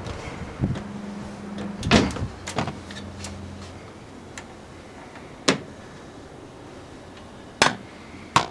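Several sharp knocks and clicks at irregular intervals, the clearest about two, five and a half, seven and a half and eight and a half seconds in, over a low steady hum that fades out about three and a half seconds in.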